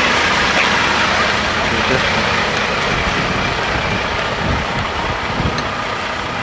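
Semi truck's diesel engine idling steadily, a constant low rumble and hum.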